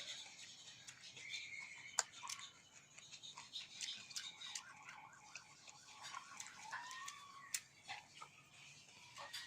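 Faint eating sounds: scattered sharp clicks of utensils or food, one louder click about two seconds in, with small mouth and chewing noises over a low room hiss.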